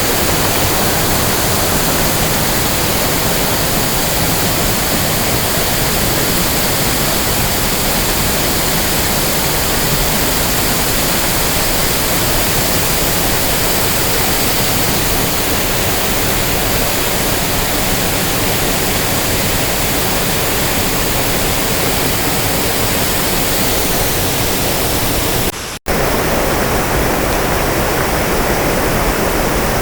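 Waterfall pouring steadily, a loud unbroken rush of falling water. About 26 seconds in the sound breaks off for a moment, then carries on with a slightly different tone.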